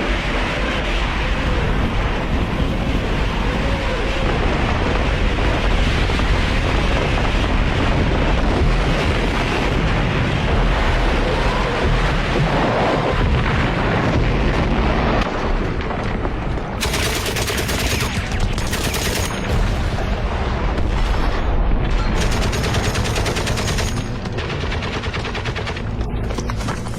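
Battle sound effects: continuous, dense gunfire mixed with explosions.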